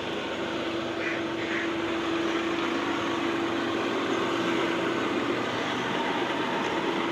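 A car's engine running steadily as the new car is manoeuvred, under a constant even hum.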